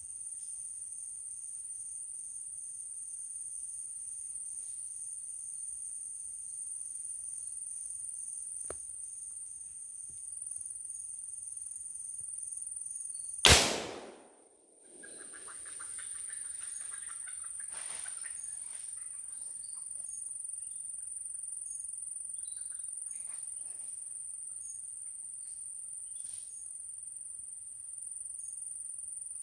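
Insects trilling steadily at a high pitch, with a slower pulsing chirp beneath. About halfway through, a single loud gunshot fires at the hunted agouti. The insect sound drops out for a moment and returns, with faint scuffling and a few clicks in the seconds after.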